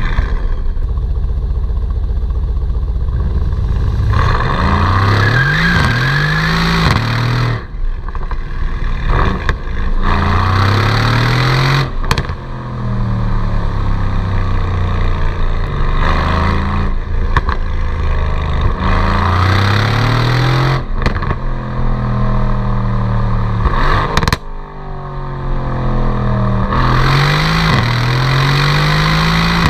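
2017 Mercedes-AMG C63's stock exhaust on its twin-turbo V8, the car accelerating hard. The engine pitch climbs through each gear and drops at each upshift, with sharp pops and cracks from the exhaust at the shifts, several times over.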